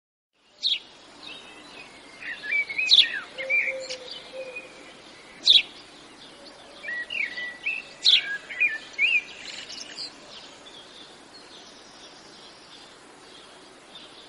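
Birds chirping and calling in quick, sharp notes over a steady faint outdoor hiss. The calls are busiest in the first ten seconds and thin out after that.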